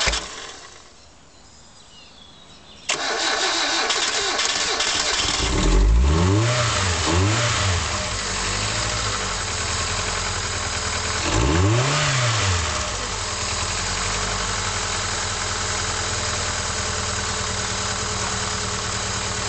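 Hyundai Accent engine starting after three months standing unused: about three seconds in it cranks and catches, is revved up and down twice with the throttle, blipped once more, then settles into a steady idle.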